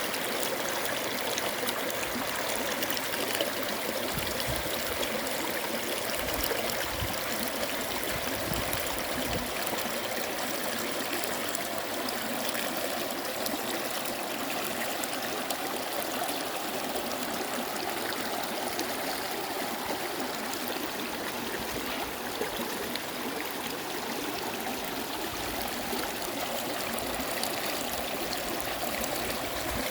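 A stream running over rocks, a steady rushing and trickling of water, with a few brief low rumbles.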